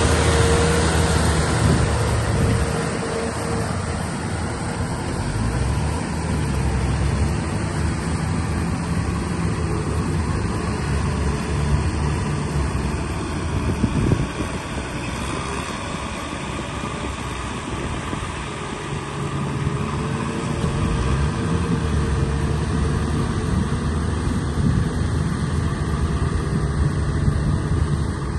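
Tractor engine running under working load, its pitch dipping and rising as the load changes, with one sharp knock about halfway through.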